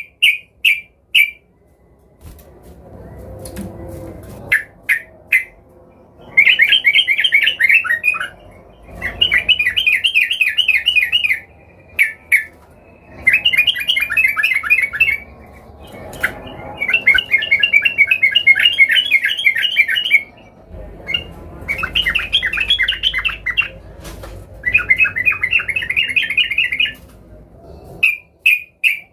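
Yellow-vented bulbul (trucukan) calling in full, excited voice: bursts of rapid chattering notes, each a second or two to about three seconds long, repeated again and again with short pauses between.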